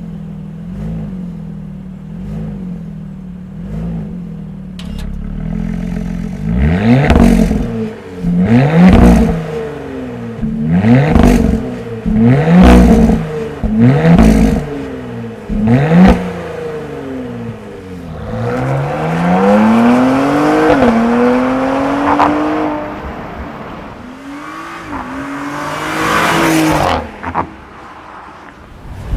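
Porsche Cayenne S (E3) engine through a Stone valvetronic catback exhaust: idling with light throttle blips with the valves closed, then about six sharp free revs with the valves open. Near the end it accelerates under load, pitch rising and stepping between gears.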